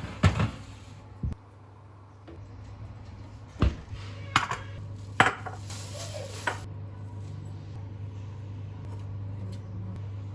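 Kitchen clatter: a handful of sharp knocks and clinks of dishes and utensils being handled, over a steady low hum.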